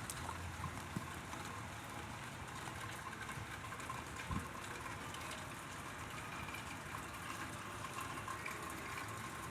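Steady rain falling, with scattered drips and light ticks. A faint steady tone comes in about halfway through.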